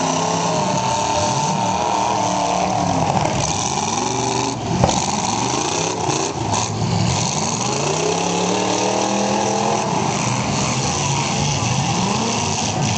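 Several demolition derby cars' engines revving up and falling back at once, their pitches rising and falling over one another, with a single sharp bang about five seconds in.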